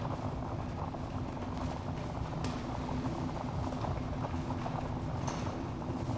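Wood fire burning in a fireplace: a steady low rumble of flames with a dense run of small crackles and a few sharper pops, one about two and a half seconds in and another near the end.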